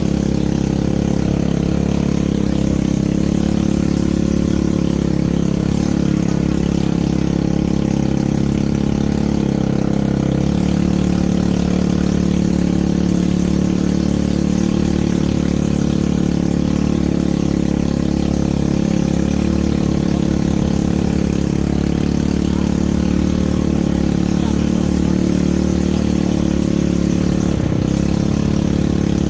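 ATV engine running steadily under way, its pitch shifting slightly about ten seconds in.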